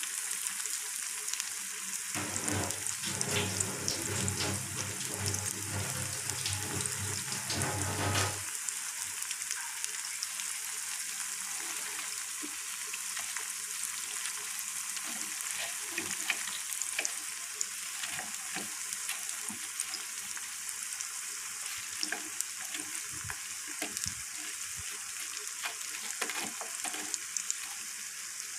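Battered cauliflower pakoras deep-frying in hot oil in a wok: a steady sizzle with many small crackling pops. A low hum sounds underneath from about two seconds in until about eight seconds.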